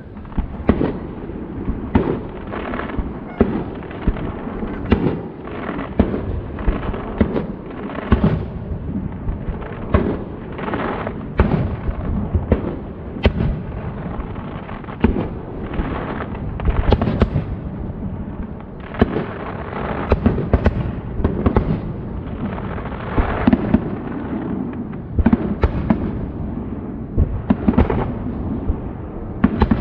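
Aerial firework shells bursting in rapid succession, several booms a second over a continuous rumble of overlapping bursts and their echoes.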